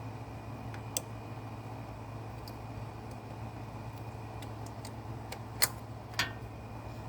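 A few sharp metallic clicks and taps of hand tools and parts being handled while the carburetor is taken off: one about a second in and two louder ones close together near the end, over a steady low hum.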